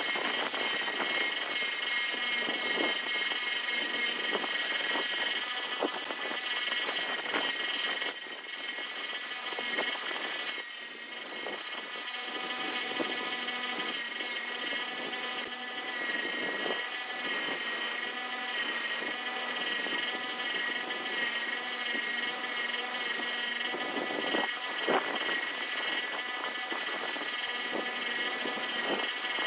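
A motor-driven machine running steadily with a high whine, its note easing briefly twice about a third of the way in before it runs on.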